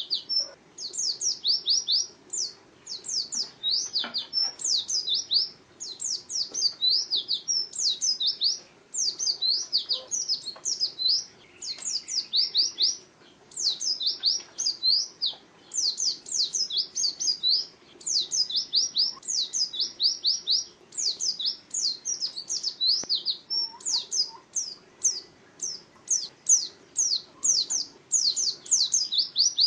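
White-eye (pleci) singing a fast, high twittering song: long runs of quick sweeping notes, broken by short pauses every few seconds.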